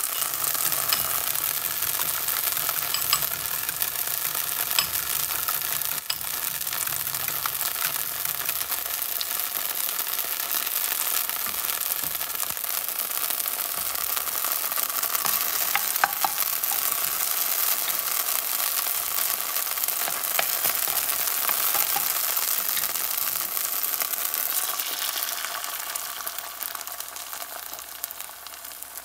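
Chopped spring onions sizzling steadily in a little olive oil in a nonstick pan, with a few faint pops. The sizzle dies down over the last few seconds as beaten egg is poured over them.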